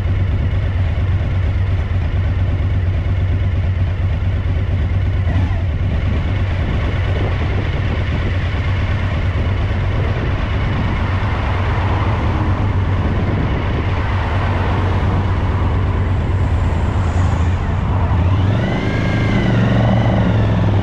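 Suzuki DL1000 V-Strom's V-twin engine running steadily, a bike with a rear-cylinder misfire. Near the end the pitch briefly rises and falls.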